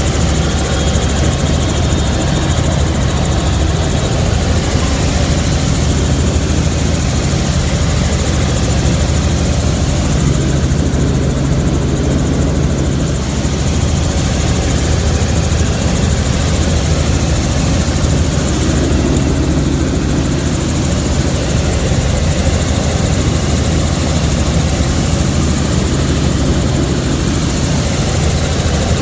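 Helicopter engine and rotor running steadily and loudly, heard from inside the cabin.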